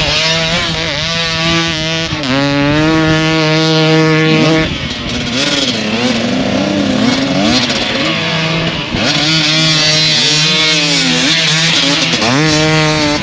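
Motorcycle engines running hard, their pitch rising and falling repeatedly as the riders rev up and ease off, over a steadier lower engine note.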